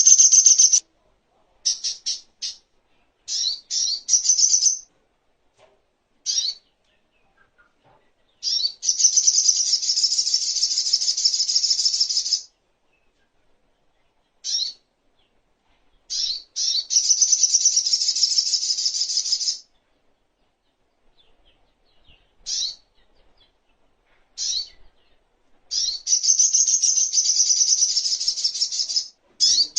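Sogok ontong (songon) song: rapid, high-pitched chirping trills in phrases a few seconds long, with short single chirps and pauses between them, repeated as a tutor recording for training songbirds.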